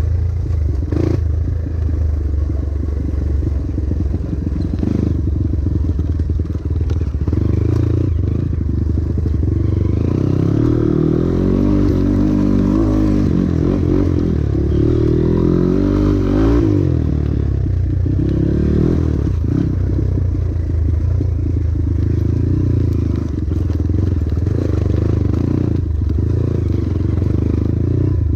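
Honda XR trail bike's single-cylinder four-stroke engine running while riding downhill over rough ground, its pitch rising and falling with the throttle about midway, with clatter and knocks from the bike jolting over the terrain.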